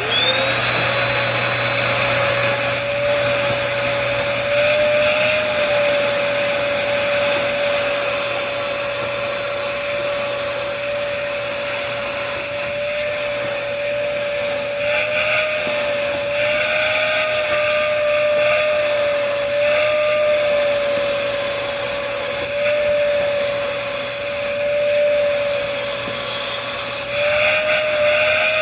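A 2010 Sanitare Multi-Pro commercial upright vacuum cleaner switching on and running steadily, its motor giving a high, steady whine over a rush of air, the pitch wavering slightly now and then.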